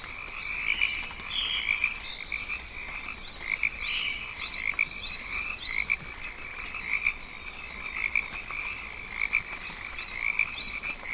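Jungle ambience made up of a dense chorus of calling frogs, a steady pulsing croak. Groups of short, rising high chirps come in and out over it.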